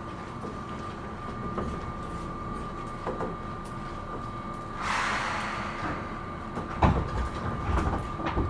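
Interior of a Seibu New 2000 series electric train standing at the platform, with a steady high hum. About five seconds in there is a burst of air hiss, and just before seven seconds a sharp thud, typical of the pneumatic sliding doors closing before departure.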